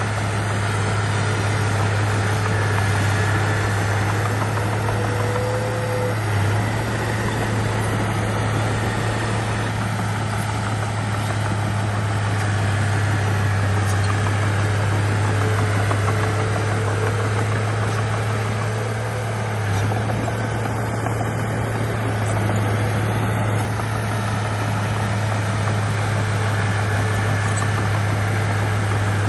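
Bulldozer's diesel engine running steadily, a constant low drone with no revving or clear impacts.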